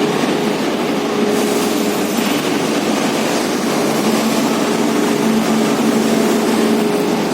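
Electric arc furnace arcing: a loud, continuous roar with a steady hum of a few tones underneath, and a brief surge of hiss between about one and two seconds in.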